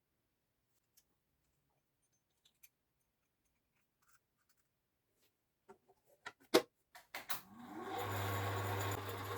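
A few light clicks and knocks, then about seven seconds in the small metal lathe's electric motor is switched on. It spins up with a rising whine over about a second, then runs steadily with a low hum.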